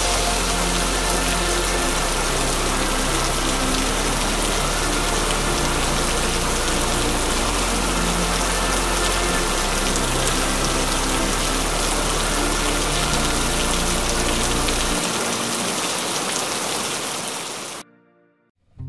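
Steady rain hiss with soft background music of sustained low bass notes beneath it; the music drops away and the rain cuts off abruptly near the end.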